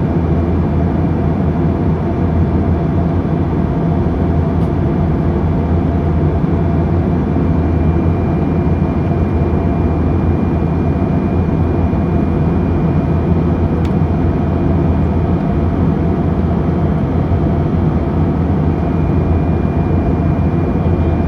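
Steady cabin drone of an airliner in flight, heard from inside the cabin: an even low rumble with a few faint steady tones above it.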